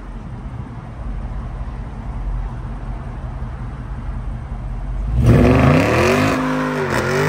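Dodge Charger Scat Pack's 6.4-litre HEMI V8 idling with a low rumble, then about five seconds in revved hard several times, its pitch rising and falling with each blip.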